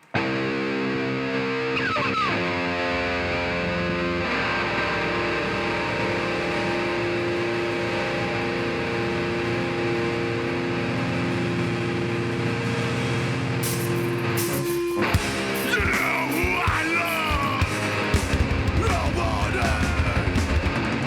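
Live heavy metal band starting a song: loud distorted electric guitar chords ring out alone, then the drums and cymbals come in about fourteen seconds in and the full band plays.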